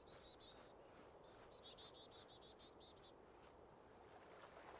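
Faint bird song: a rapid trill of repeated high notes that ends just after the start, then a second, longer trill from about a second in until about three seconds, each opening with a higher note. Beneath it is a soft steady hiss.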